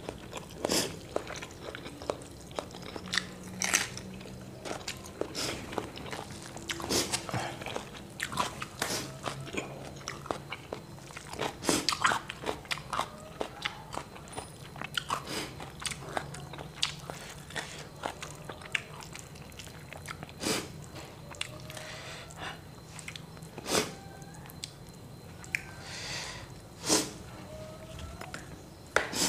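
Close-miked eating of crispy fried tilapia and rice by hand: chewing with irregular sharp crunches.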